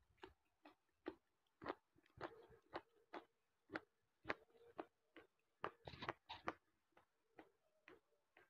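Quiet, close-miked chewing and biting of food: irregular crisp crunching clicks, two or three a second, crowding together about six seconds in.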